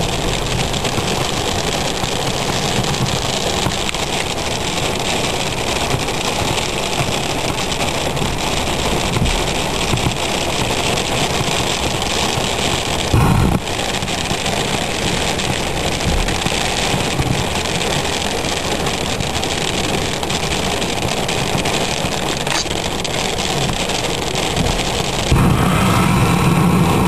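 Steady rush of heavy rain on a car during a severe thunderstorm, heard from inside the car with its engine idling. A brief low thump comes about halfway through, and a louder low rumble sets in near the end.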